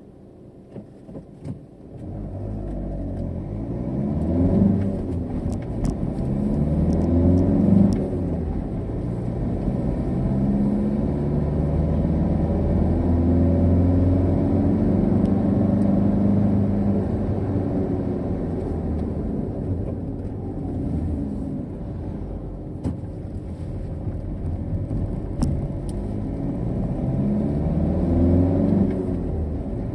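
Car engine heard from inside the cabin, pulling away from a stop about two seconds in and accelerating through the gears. Its pitch rises and falls back several times over the next few seconds, then holds fairly steady at cruising speed, with another rise near the end. A few light clicks come before it pulls away.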